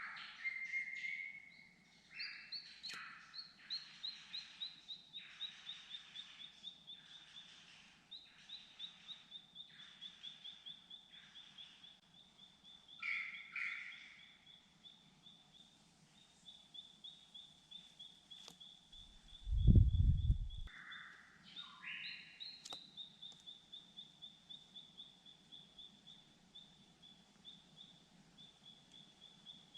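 Birds calling: a long run of rapid high notes, several a second, drifting slightly down in pitch, over harsher rasping calls that come and go. About two-thirds of the way through there is a brief, loud, low rumble, like a gust or a bump on the microphone.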